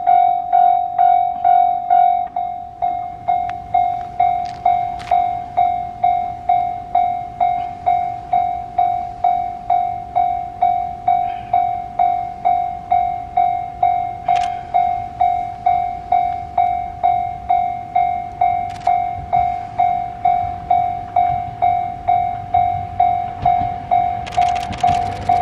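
Railway level-crossing alarm ringing a steady repeated ding, about two strikes a second. Under it the low rumble of an approaching diesel railcar grows, turning to loud train noise near the end.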